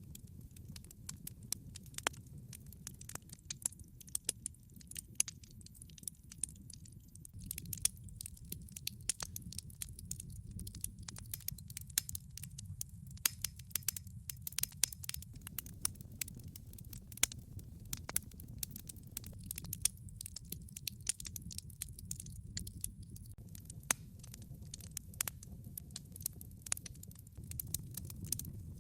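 Log fire in a fireplace crackling: dense, irregular sharp pops and snaps of burning wood over a steady low rumble.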